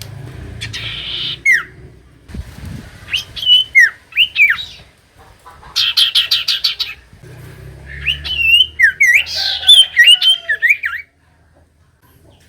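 Common iora singing: sharp whistled notes that slide down in pitch, a quick run of about eight repeated notes six seconds in, then a fast tumbling phrase of rising and falling whistles that stops about eleven seconds in.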